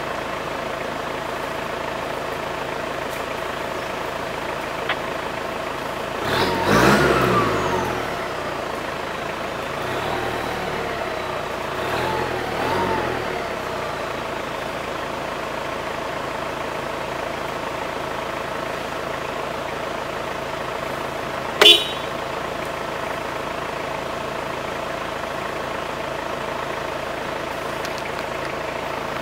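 Vehicle engines idling steadily in stopped traffic. About six seconds in there is a louder swell with sliding pitch, a smaller one with a rise and fall around twelve seconds, and a brief sharp high-pitched sound about twenty-two seconds in.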